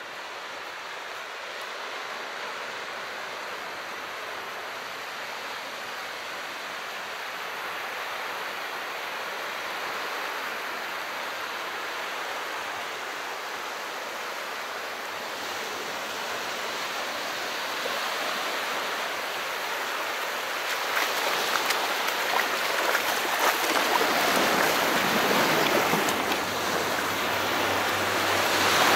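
Calm sea: a steady wash of water, growing louder and fuller over the last third.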